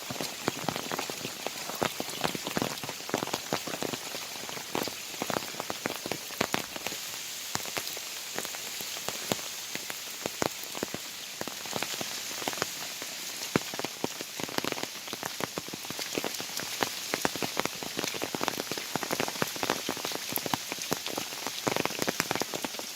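Heavy rain falling steadily: a constant hiss with many sharp, irregular drop hits close by.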